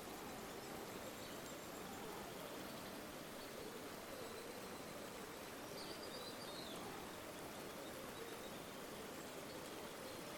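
River water flowing steadily, a soft, even rushing. A faint, short high bird chirp comes about six seconds in.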